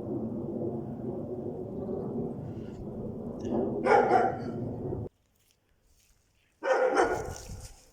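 A dog guarding its territory barks: one loud bark about four seconds in and another near seven seconds. A steady low rumble lies under the first five seconds and cuts off suddenly.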